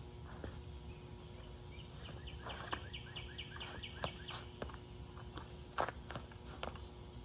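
Garden ambience with a faint steady hum. About two seconds in, a bird sings a rapid run of repeated chirps for about two seconds. Then come a few sharp taps of feet on stone paving, the sharpest near the end.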